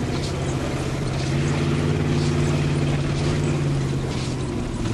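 A 1972 Cadillac's V8 engine runs steadily under load, heard from inside the cabin, with a hiss of brush and branches scraping against the car as it pushes through the woods.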